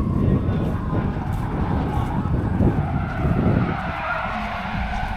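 A car's engine running hard with its tyres skidding, a drawn-out squeal over a deep rumble; the rumble eases about four seconds in.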